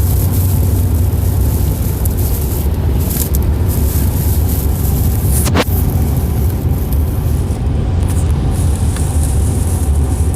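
Steady low rumble of a car driving on a rain-soaked road, heard from inside the cabin, with a steady hiss over it. A single sharp click about five and a half seconds in.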